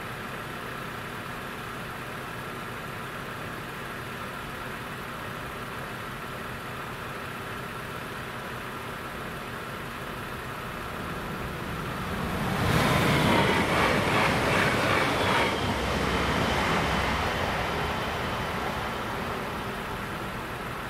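A Leo Express electric passenger train passing over a level crossing at speed, a rushing noise with a whine that swells suddenly about 12 seconds in, is loudest for about three seconds and then fades away. Under it the crossing's warning signal sounds steadily.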